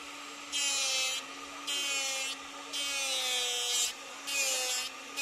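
Four strokes of a jeweller's hand file rasping across gold, the third one longest. A small gold-dust collecting vacuum hums steadily underneath.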